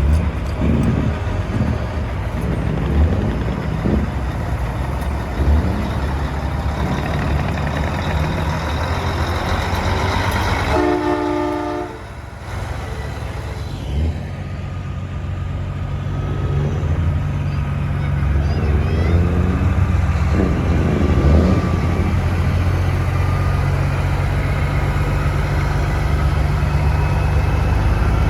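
Semi trucks' diesel engines rumbling as they roll past. A chorded air horn sounds once for about a second midway through, and the engine noise grows louder toward the end as another rig comes close.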